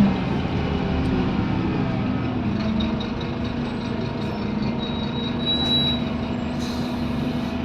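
Scania N230UD double-decker bus heard from on board, its five-cylinder diesel running with a steady drone. A brief high squeal comes about five and a half seconds in, and a short hiss of air follows about a second later.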